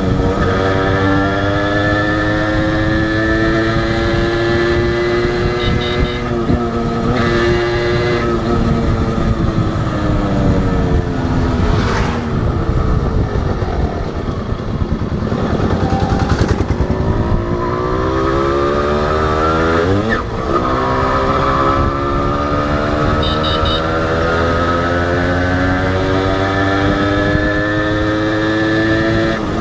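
Honda H100S two-stroke motorcycle engine running on the road. Its note holds steady at first, drops away in the middle as the throttle eases, then climbs again, with a brief break about two-thirds of the way in.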